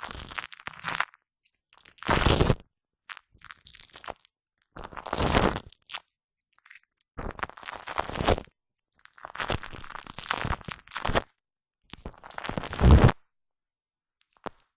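Shaving foam squished and worked by hand directly on a microphone, in separate sticky, crackling bursts of about a second each with short silent pauses between them; the last burst, near the end, is the loudest.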